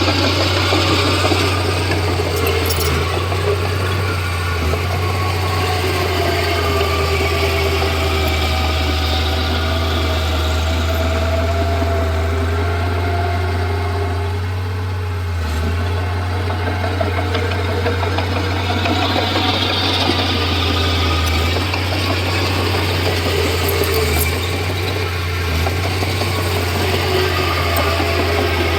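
Komatsu D31P crawler bulldozer's diesel engine running steadily at work: a constant low drone with a rushing hiss that swells near the start and again about two-thirds of the way through.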